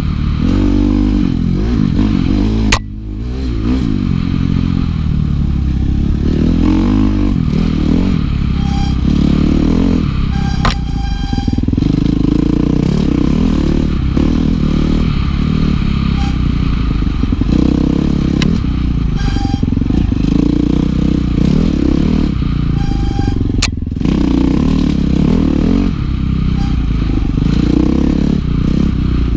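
Dirt bike engine revving up and falling back again and again while being ridden, with clattering from the bike. There is a sharp crack about three seconds in, where the engine note briefly drops, and another near the end.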